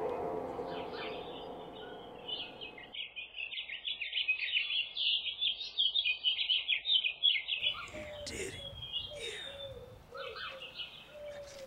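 Birds chirping: a quick, dense run of high twittering chirps, then scattered sharper calls over a lower short note repeated several times. A music track fades out under the first few seconds.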